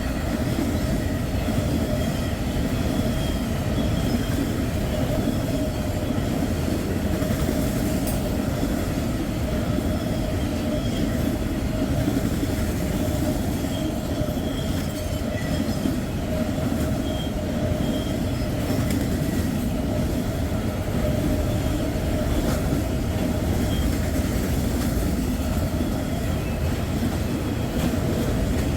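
A long freight train rolling past at close range: a continuous rumble of car wheels on the rails, with a steady tone and faint squealing from the wheels over it.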